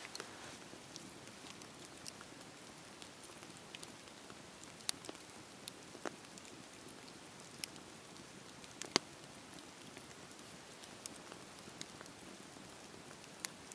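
Wood fire crackling over a low, steady hiss, with irregular sharp pops, the loudest one about nine seconds in.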